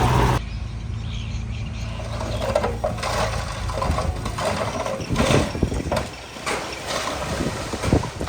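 Heavy earth-moving machinery at work: a loud diesel engine cuts off abruptly about half a second in, then a quieter low engine runs on under irregular knocks and clanks.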